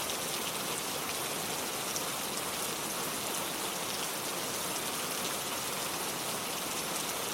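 Steady rain falling: an even hiss of many drops, with faint single drop taps scattered through it.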